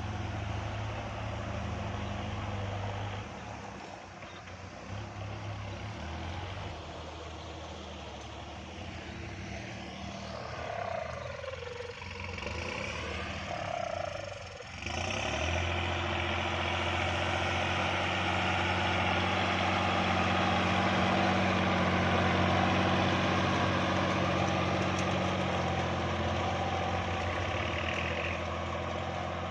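Farm tractor's diesel engine running steadily while ploughing. It gets suddenly louder about halfway through and stays loud.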